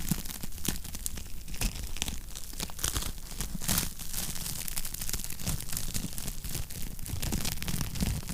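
Wood fire crackling continuously, with many small sharp pops and snaps over a low rumble of burning.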